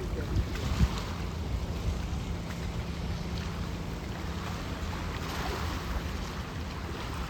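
Strong wind buffeting the microphone: a steady low rumble with hiss above it, and two short knocks in the first second.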